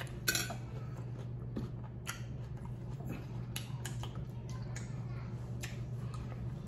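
Close-miked mouth sounds of a person eating: quiet chewing with scattered wet clicks and lip smacks, over a steady low hum.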